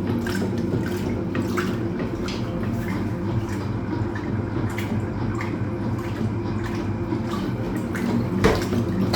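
Hoover Automatic 820 washing machine running through a wash cycle: a steady motor hum with water sloshing and trickling inside the machine.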